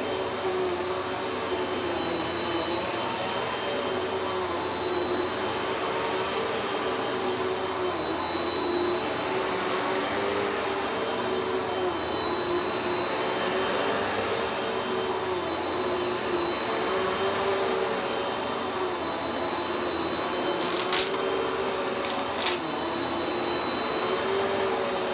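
Vacuum cleaner running steadily, its whine wavering slightly in pitch. Two short knocks come a few seconds before the end.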